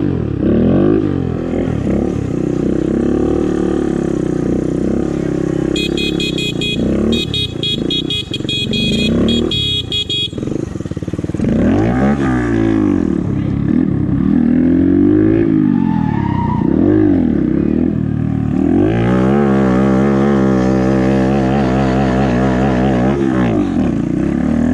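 Sportbike engine revving over and over during stunt riding, its pitch climbing and dropping repeatedly. A high pulsing squeal sounds for about four seconds from six seconds in. Near the end the engine is held high for about four seconds with a fast wobble in pitch.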